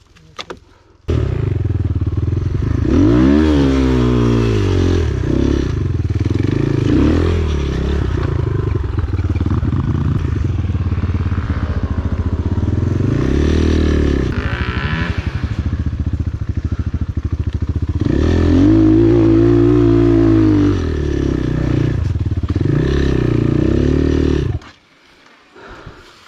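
Enduro motorcycle engine running under throttle, revving up and down again and again. It starts abruptly about a second in and cuts off shortly before the end.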